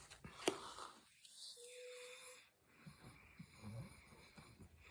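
Close mouth sounds of eating cornstarch: one sharp crunchy bite about half a second in, then quieter crackly chewing and breathing.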